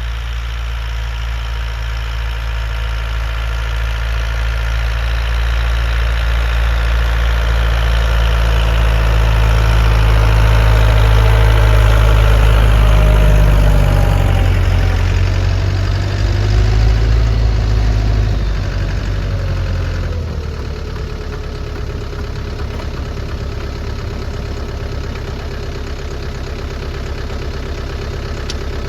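Lovol tractor's diesel engine running, growing louder over the first dozen seconds and dropping to a lower, steady level about twenty seconds in.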